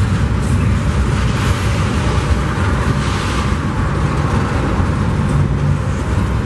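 Double-stack container freight train rolling past close by: a loud, steady rumble of steel wheels on the rails, with the diesel locomotives working hard under load up a grade.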